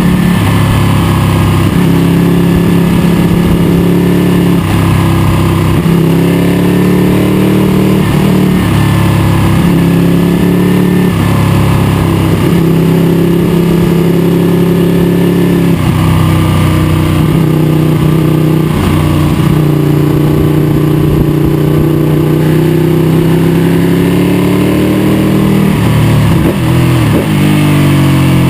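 Ducati 1199 Panigale S's L-twin engine running hard on track, heard from a camera mounted on the bike: the pitch climbs as it pulls through the gears and drops at each shift, several times, with downshifts into a slower corner.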